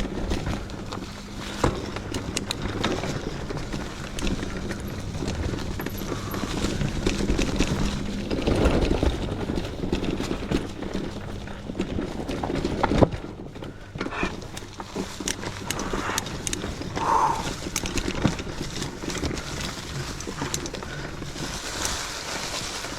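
Mountain bike ridden over rough trail: tyres rolling on dirt and the bike clattering and rattling over bumps, with a steady low hum through the first half and a sharp knock about thirteen seconds in.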